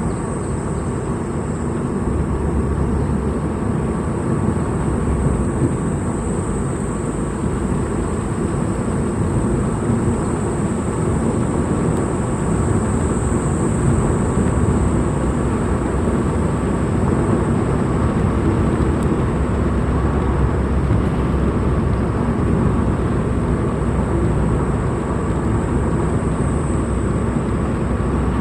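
Steady engine and road noise from a vehicle on the move, even throughout, with a thin, high, steady tone above it.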